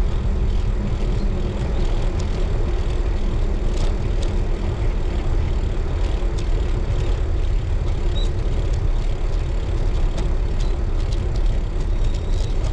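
Steady low wind rumble on the microphone while riding a road bike, with a few faint clicks.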